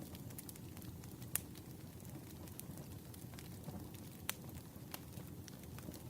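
Campfire burning: a steady low rush of flames with a few sharp crackling pops of wood, the loudest about a second and a half in and again past four seconds.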